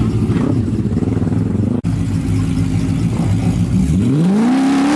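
Engine idling steadily, then revved hard about four seconds in, its pitch climbing fast and holding high at the end.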